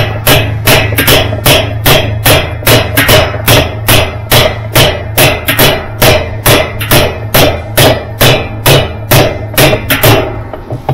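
Steady run of metal-on-metal hammer blows, about two to three a second, tightening a Whirlpool washer's spin block onto its new spin tube. The blows stop near the end.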